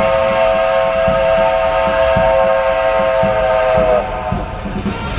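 Locomotive whistle sounding one long, steady, multi-toned blast that stops about four seconds in, over a low rumble.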